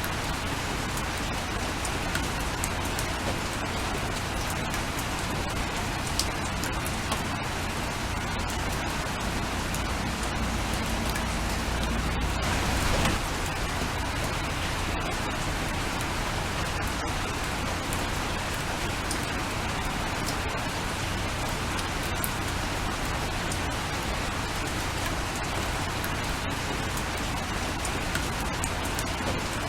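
Steady rain falling, with scattered drops heard as small ticks. A low rumble swells and peaks briefly about 13 seconds in.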